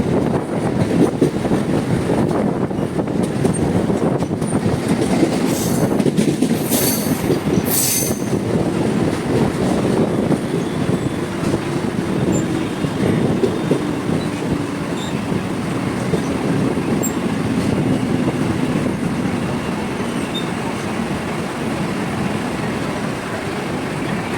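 Mumbai suburban local electric train running past on the rails: a loud, steady rumble of wheels and carriages, with a few brief high-pitched bursts about six to eight seconds in.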